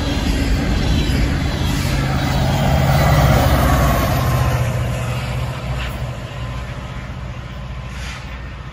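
Coal hopper cars of a freight train rolling past on the rails, then the rear diesel locomotive passing close with a low engine drone, loudest about three to four seconds in. The sound then fades as the train pulls away.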